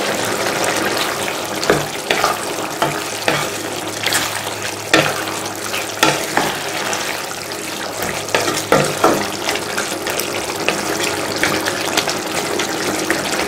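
Chicken in a green chilli sauce bubbling and sizzling in a pan, a steady hiss with many scattered pops and clicks. Now and then a louder knock from a wooden spatula stirring the pieces.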